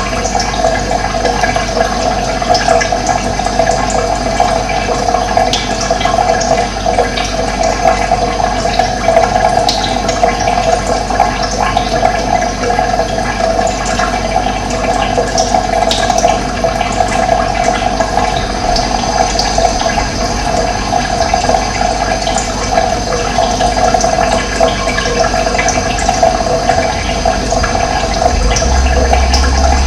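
Steady rush of running water, with short high bird chirps here and there. A low rumble comes in near the end.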